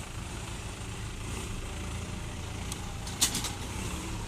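Diesel vehicle engine running steadily at a low pitch, with a single sharp clack about three seconds in.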